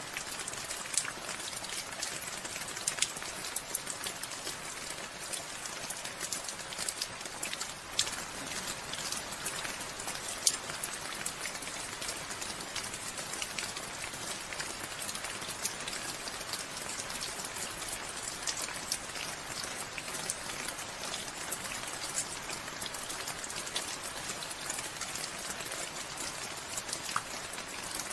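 Steady rain falling, an even hiss broken by many sharp, separate drops striking a surface close by.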